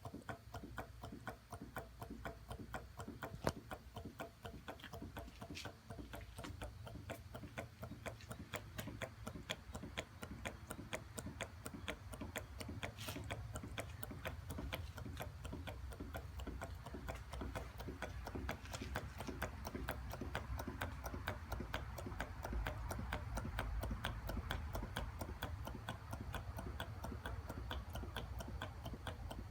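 Hot air engine running, with fast, even mechanical ticking from its moving parts over a low rumble.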